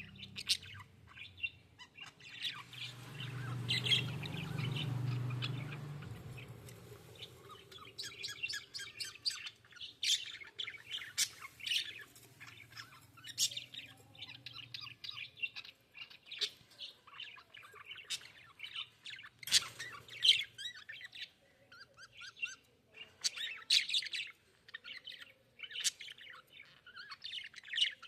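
Budgerigars chirping: a busy run of short, high chirps and squawks. A low rumble underlies them from about two to six seconds in, and there is a sharp click around two-thirds of the way through.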